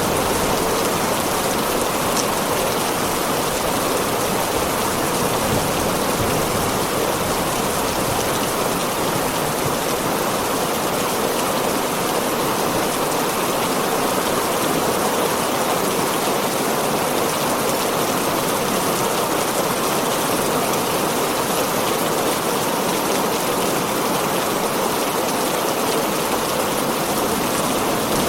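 Steady heavy rain pattering on a tin roof, an even unbroken hiss with no pauses or distinct drops.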